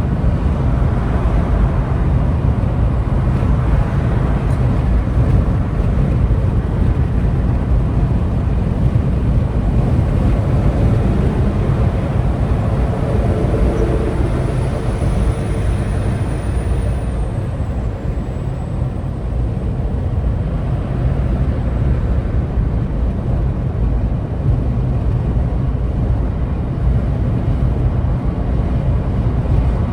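Steady low rumble of vehicle engine and road noise while driving in slow traffic. Near the middle, a faint high thin whine drops slightly in pitch.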